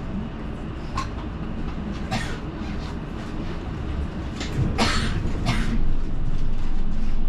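Running noise inside a moving route bus: a steady low engine and road rumble with several short rattles from the cabin, growing louder about six seconds in.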